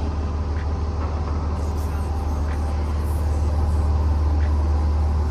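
A steady low rumble, a little louder from about three seconds in, with a few faint light ticks over it.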